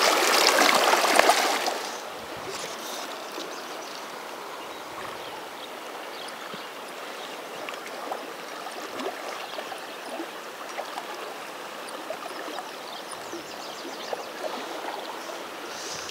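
Fast river current rushing steadily, louder for the first two seconds and then settling to a lower, even rush.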